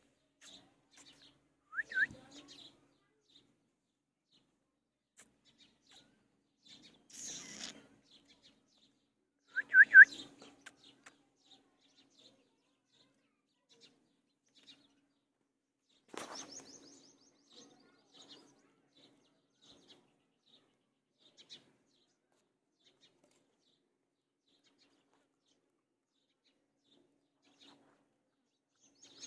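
A bird's brief chirps: two short rising calls, one about two seconds in and a louder one about ten seconds in, with a few faint rustles and a sharp click about sixteen seconds in, and long quiet stretches between.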